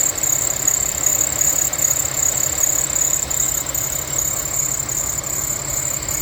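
Infiniti FX35's V6 engine idling with a steady high-pitched squeal from its drive belt. The belt is dry and worn and due for replacement; the squeal sounds like a bearing or metal grinding on metal, but it is the belt.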